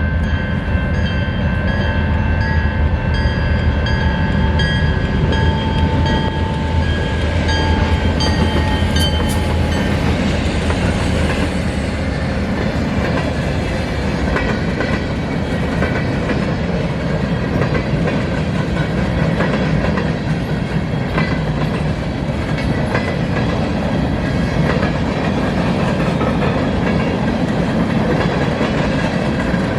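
Canadian National freight train passing. The diesel locomotives' engines drone for about the first ten seconds, over a regular ringing about every 0.7 s. Then the rail cars roll past with steady rumble and wheel clatter over the rail joints.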